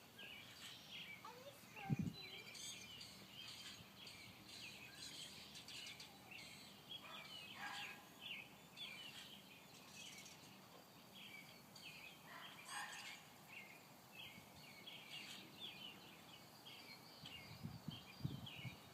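Backyard birds chirping, a steady scatter of short, faint chirps, with a single thump about two seconds in.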